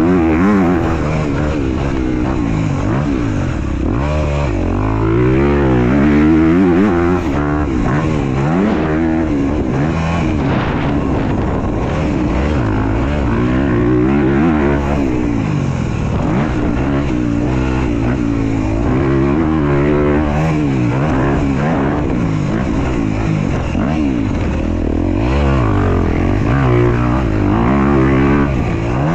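Dirt bike ridden around a motocross track, its motor pitch rising and falling over and over with the throttle.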